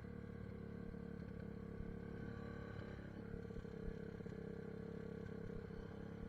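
SSR 150 dirt bike's single-cylinder four-stroke engine idling steadily at a stop.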